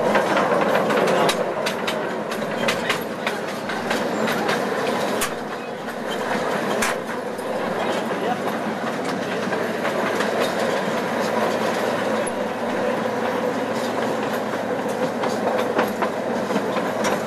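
Zoo train running, heard from on board an open passenger car: a steady rumble with rattling and many sharp clicks from the wheels and cars, thickest in the first few seconds.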